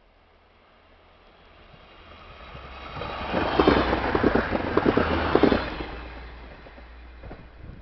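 A class 643 Bombardier Talent diesel multiple unit passes close at speed. Its rushing noise swells, then for about three seconds the wheels clatter rapidly over the rails as the cars go by, and the noise fades away as the train recedes.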